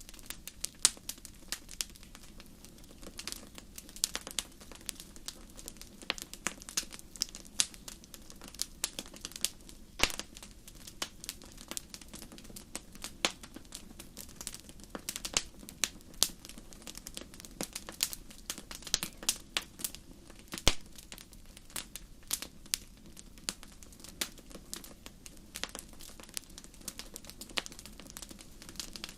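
Wood fire burning in a fireplace, crackling with frequent irregular sharp pops over a low steady rumble of flames.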